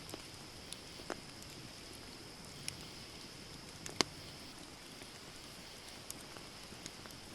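Wood campfire burning: a steady hiss with scattered sharp crackles and pops, the loudest about four seconds in.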